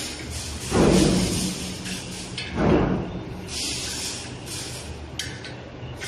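Tools working on the metal blade bolts inside a cable granulator's cutting chamber while the blades are tightened: two clunks about a second and nearly three seconds in, then scraping and a sharp click.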